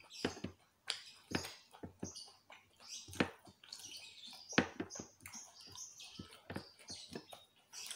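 Close-up eating sounds: irregular wet clicks and smacks of chewing and lip-smacking on fried chicken and rice, with fingers picking food from a glass plate.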